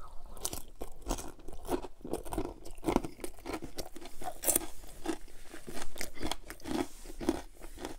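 Close-miked eating: a bite taken from a piece of sauce-coated fried chicken and chewed, with irregular mouth clicks throughout.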